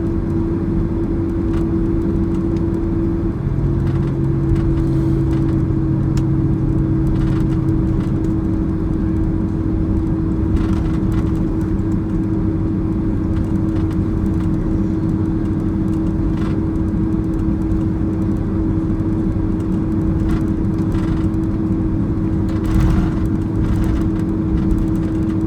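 Boeing 767-300ER cabin noise while taxiing after landing: a steady hum from the idling engines over a low rumble. A lower hum joins for a few seconds near the start, and there is a brief louder bump about 23 seconds in.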